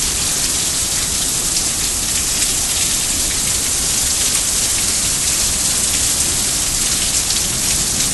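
Rain falling steadily: an even, unbroken hiss with faint drop ticks.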